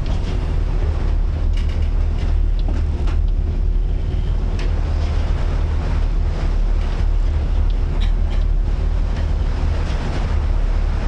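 Strong wind blowing across the microphone on a boat in rough sea, over a steady low drone and the wash of waves, with a few short sharp splashes or knocks.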